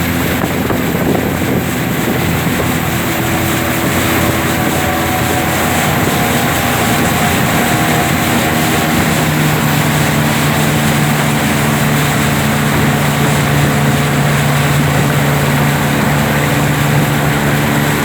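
Racing motorboat engines running at high speed, held steady with their pitch shifting slowly as the boats race, over a broad rushing noise.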